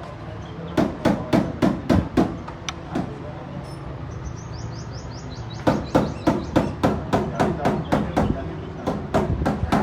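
Rapid hammer blows, about three or four a second, in two runs with a pause of a few seconds between them.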